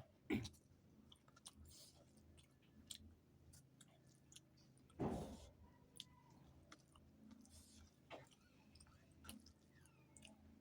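A person chewing food, with soft wet mouth clicks scattered throughout and one louder, longer noise a little past halfway.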